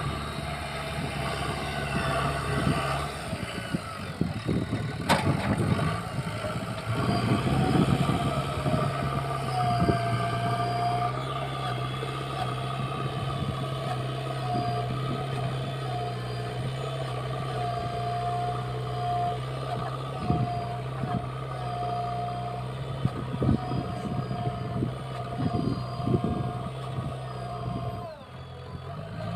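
Diesel engine of a JCB earthmoving machine running steadily while it works, with irregular clanks and knocks and an on-and-off higher whine; a sharp click about five seconds in.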